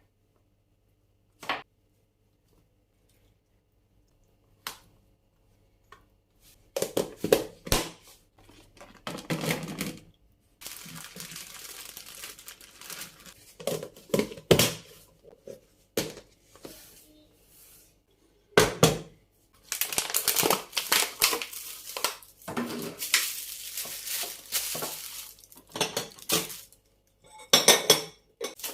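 Kitchen containers and packaging being handled during fridge cleaning. There are a few separate knocks at first, then bursts of clatter as items are set down and long stretches of rustling.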